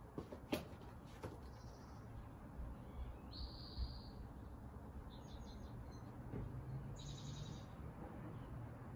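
A bird giving short, high calls about every two seconds over a steady low rumble, with two sharp clicks in the first second and a half, the first of them the loudest sound.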